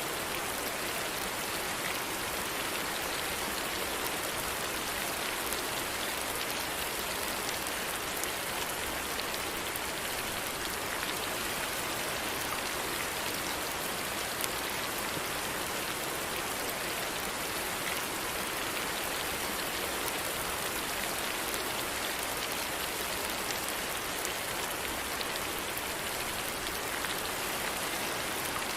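Steady rain falling, an even dense hiss of drops with fine scattered pattering ticks.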